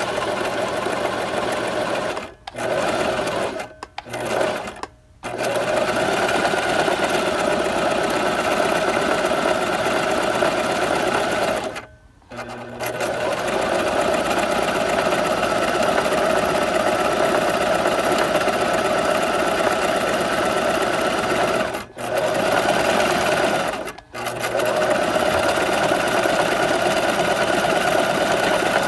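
Electric sewing machine running steadily, stopping briefly several times and starting again, with the longest pause about twelve seconds in.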